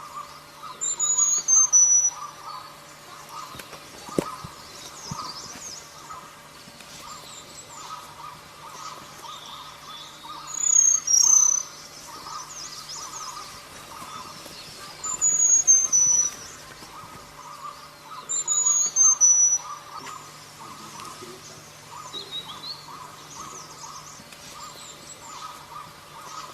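A wild bird known in Indonesia as selendang biru calling four times, each call a quick run of four or five sharp, high notes stepping down in pitch. Under the calls runs a steady insect chorus and a low hum.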